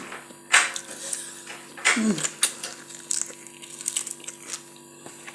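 Scattered sharp clicks and taps from a person eating, with a short vocal sound falling in pitch about two seconds in, over a steady low hum.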